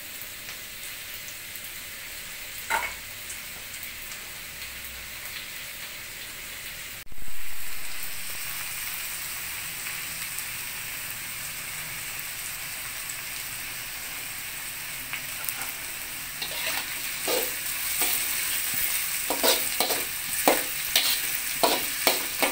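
Minced garlic and onion sizzling in hot oil in an aluminium wok, a steady frying hiss that grows louder about a third of the way in. In the last third a metal spatula scrapes and taps against the wok as the onions are stirred.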